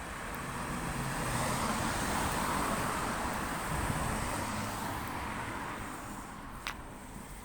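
A motor vehicle drives past, its engine and tyre noise swelling to a peak and then fading away. There is a sharp click near the end.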